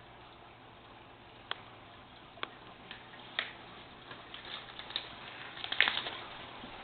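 Irregular sharp clicks and taps, a second or so apart, building to a louder quick cluster of clicks near the end, over a faint steady low hum.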